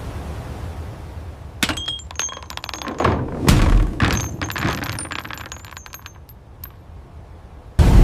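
Crashing and clinking of breaking debris: a string of sharp impacts with short, high ringing chinks, the heaviest crash about three and a half seconds in, dying away. A loud low rumble cuts in suddenly near the end.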